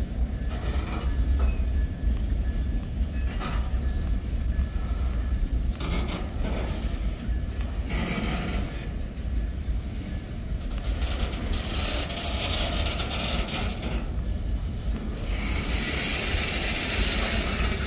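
Freight cars of a Norfolk Southern mixed freight train rolling past. A steady low rumble carries scattered clicks of wheels over the rails, with stretches of louder, hissing wheel and car noise about eleven seconds in and again near the end.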